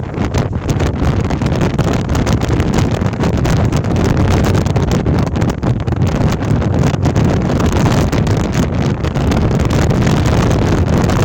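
Gale-force storm wind buffeting the microphone: a loud, dense, unbroken rush heaviest in the low end, flickering in strength with the gusts.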